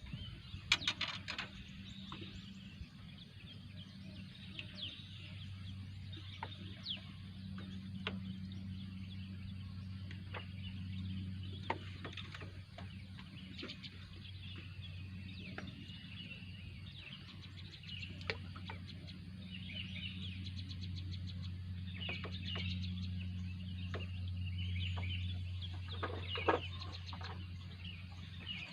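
Birds chirping and calling, with short sweeping notes and clicks scattered throughout, over a steady low hum.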